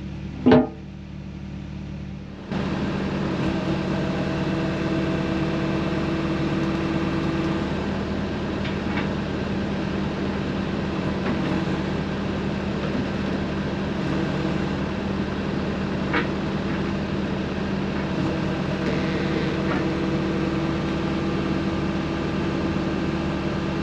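Engine of a piece of heavy equipment running steadily. A short loud sound comes about half a second in, and the engine noise jumps louder about two and a half seconds in.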